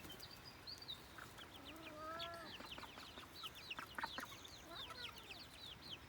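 Young chickens peeping: a steady scatter of short, high, falling chirps, with one longer, lower, wavering call from a bird about two seconds in.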